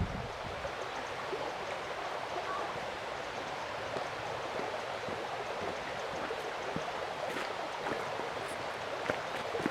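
Mountain stream flowing steadily over rocks: an even rushing of water.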